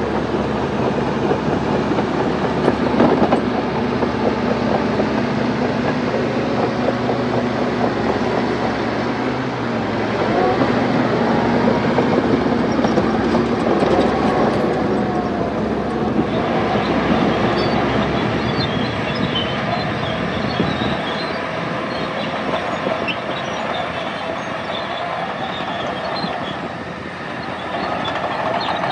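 Bulldozer working, its diesel engine running under load and its steel tracks clanking. From a little past halfway the engine eases off and a scatter of high metallic squeaks and clinks from the tracks comes through.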